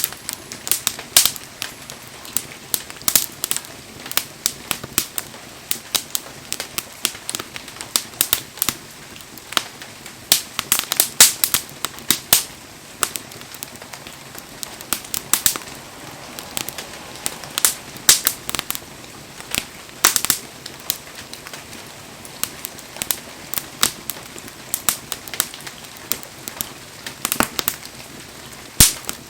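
Firewood bonfire crackling, with a steady run of sharp, irregular pops over a low hiss of burning.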